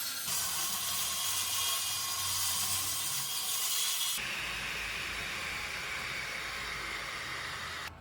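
Power tool working wood: a steady hissing rush that changes character abruptly about four seconds in and cuts off just before the end.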